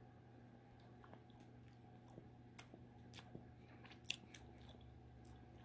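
Faint chewing of a chocolate-covered caramel bar: soft, scattered small clicks and crunches, one a little louder about four seconds in, over a steady low hum; near silence overall.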